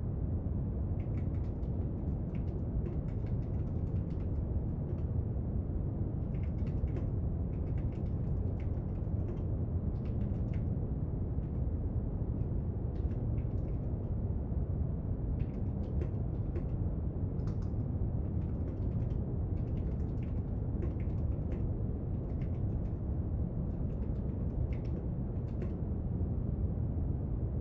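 Steady brown noise, with faint, irregular small clicks and taps from desk work scattered through it.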